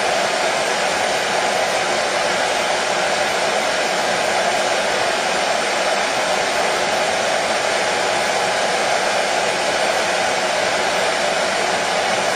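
Hair dryer running steadily: an even, unbroken rush of blowing air and motor hum.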